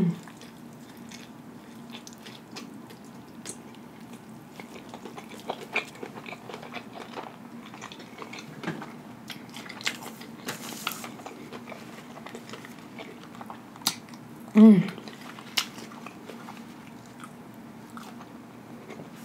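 A person chewing a big mouthful of burger close to the microphone, with many small wet mouth clicks and smacks. About fifteen seconds in there is a brief voiced hum, the loudest sound.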